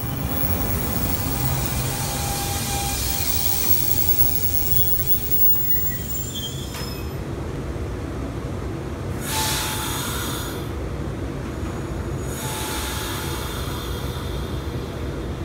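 NJ Transit electric commuter train passing close by, a steady din of steel wheels on rail with thin high wheel squeal over it.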